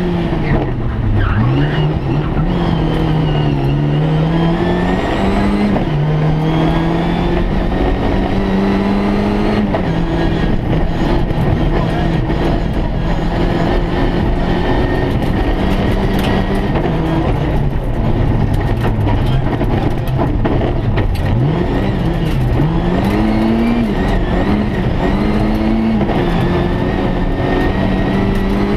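Rally car's engine heard from inside the cabin, driven hard: the revs climb and drop back at each gear change, several times in quick succession early on and again near the end, and hold high in between. Road noise and short rattles and clicks run under it.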